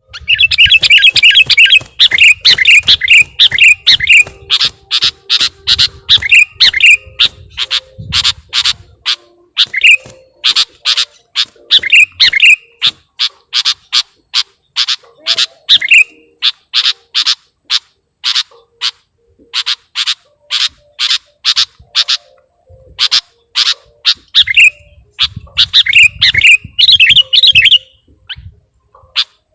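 Sooty-headed bulbul (kutilang) calling: a long series of loud, sharp, short notes, about two a second, broken now and then by quick warbled phrases. A low rumble runs under the calls for the first several seconds and again near the end.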